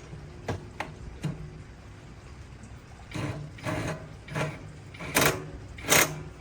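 A series of irregular knocks and clatters: a few light clicks in the first second or so, then five louder knocks from about three seconds in, the last two the loudest.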